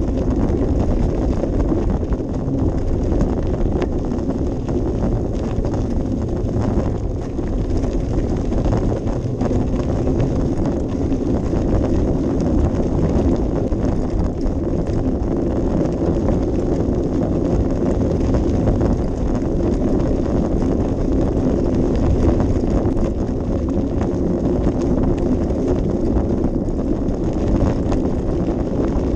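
Steady wind rumble buffeting a small action-camera microphone while riding a bicycle, with light rattling and clicking from the ride throughout.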